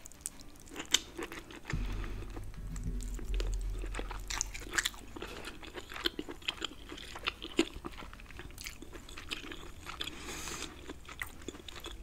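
Close-up chewing and biting of sauce-coated king crab leg meat, with many sharp, irregular mouth clicks. A steady low hum comes in about two seconds in.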